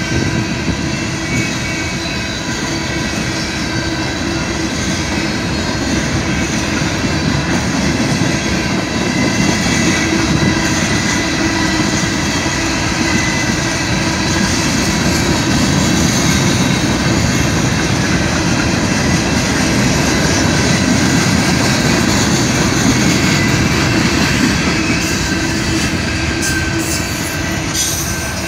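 A CSX freight train's cars rolling past a level crossing: a steady, loud rumble of steel wheels on the rails, with a thin high squeal held over it and a few sharp clicks near the end.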